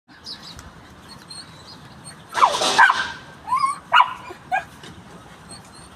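A dog barking: one loud, harsh bark about two and a half seconds in, then three short higher yips roughly half a second apart.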